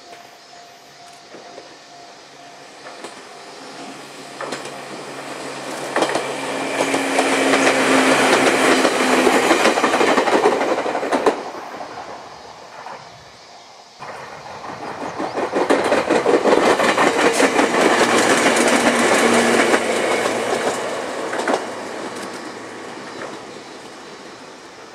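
Electric train, likely a Jōmō Electric Railway 700 series, passing close by: it approaches, runs past with rapid clickety-clack of wheels over rail joints and a low hum, then fades. After a sudden cut, a second train approaches and passes the same way.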